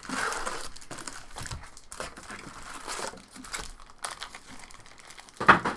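Crinkling and tearing of a trading-card pack's wrapper as it is opened and handled, an irregular rustling that is loudest at the start and with one sharp loud rustle near the end.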